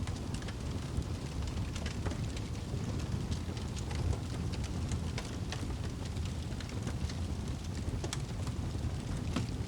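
Fireplace fire crackling, with many small irregular pops and snaps over a steady low rumble of burning.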